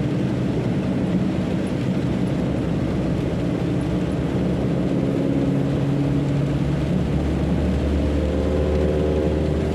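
Delivery truck's engine running while driving, heard from inside the cab, its pitch climbing as it speeds up about five seconds in and again near the end.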